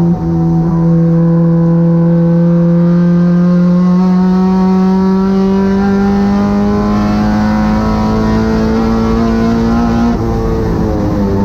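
Honda Civic's K24 four-cylinder engine under hard acceleration on track: a quick upshift just after the start, then a long pull with the revs climbing slowly for about ten seconds. Near the end the revs drop as it lifts off and shifts down.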